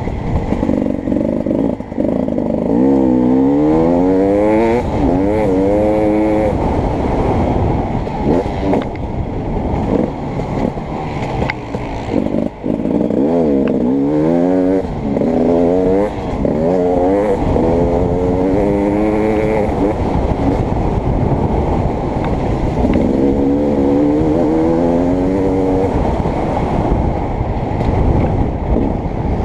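Beta 300RX two-stroke dirt bike engine running hard, with its pitch climbing in a series of short rising sweeps three times as it accelerates, and steadier running between the bursts.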